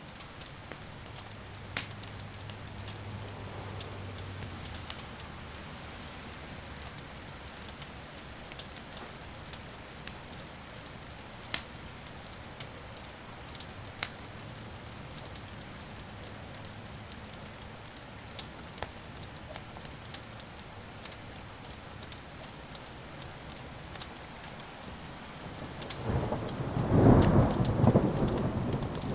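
Wood fire crackling steadily with a few sharp pops, and a loud rumble of thunder that builds up near the end.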